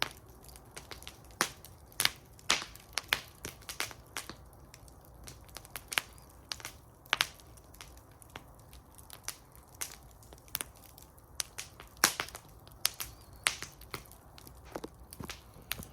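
Wood fire burning in a fire bowl, crackling with irregular sharp pops and snaps, the loudest about 12 seconds in.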